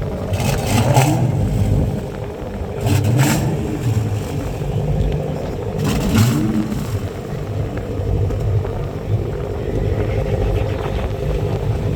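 Car engines running at a car meet, with three short louder bursts about three seconds apart over a steady low rumble.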